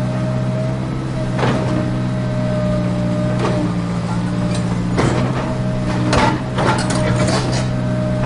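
Steady hum of a remote-control toy excavator's motors at work, with several sharp knocks and clatters, most of them bunched between about five and seven and a half seconds in.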